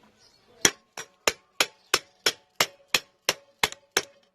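Hammer tapping on metal, about eleven even blows at roughly three a second, each with a short metallic ring; the first is the loudest. It is driving a universal joint's bearing cap out through the yoke.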